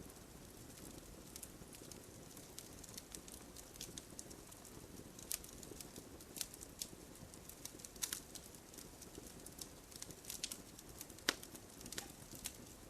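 Wood fire burning in a fireplace: a soft low hiss with scattered sharp crackles and pops from the burning logs, a few of them louder.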